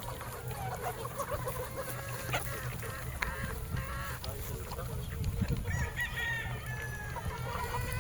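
Gamefowl chickens clucking with many short calls, and a rooster crowing once, in a call of about a second and a half, starting around six seconds in.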